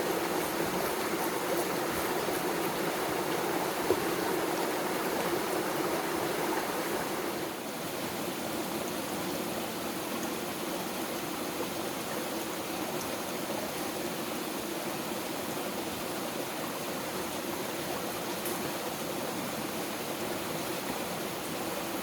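A stream running steadily, with one sharp click about four seconds in and a slight drop in level a little later.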